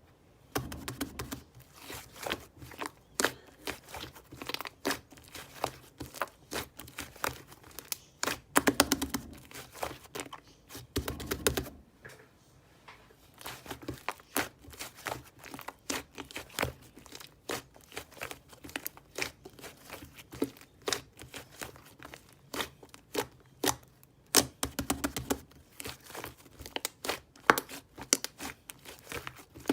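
Slime being kneaded and pressed by hand, giving irregular sticky clicks and crackling pops, with a few longer, louder runs of crackling about nine, eleven and twenty-five seconds in.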